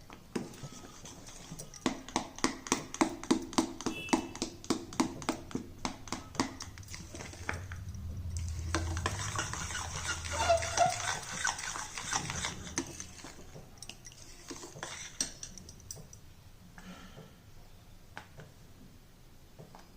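Spatula stirring a thick mashed-banana and jaggery mixture in a kadhai: quick knocks against the pan about three a second for several seconds, then a denser scraping for a few seconds, then quieter occasional scrapes.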